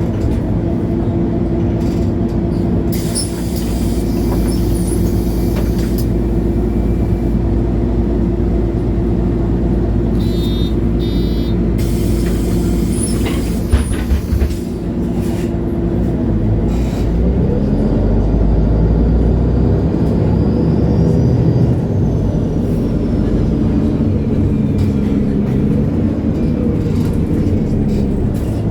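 2011 MAN A23 Lion's City G articulated bus heard from inside: its diesel engine runs steadily, with two short bursts of compressed-air hiss and a rapid beeping a little before midway, plus a knock just after. About seventeen seconds in, the engine note rises as the bus accelerates and stays up.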